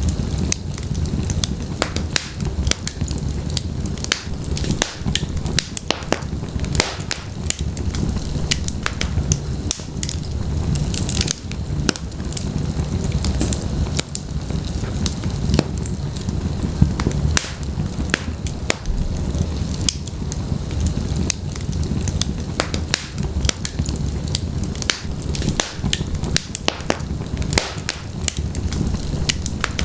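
Wood fire burning in a fireplace: a low steady rumble of flames with frequent, irregular sharp crackles and pops from the burning logs.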